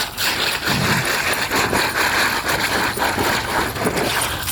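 Penny board's plastic wheels rolling over a rough surface: a steady rolling noise with small knocks, easing off just before the end.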